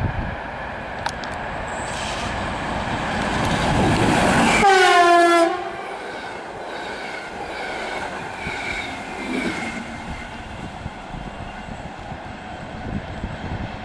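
Intercity passenger train hauled by an electric locomotive, approaching and passing at speed. Its horn sounds once for about a second at the loudest moment, about halfway through, and its pitch drops as the locomotive goes by. The coaches then run past with a steady rolling rumble that fades slowly.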